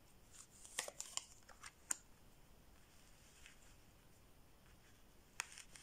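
Tarot cards being handled: a quick run of light clicks and snaps as cards are drawn and laid down, then one more click a few seconds later.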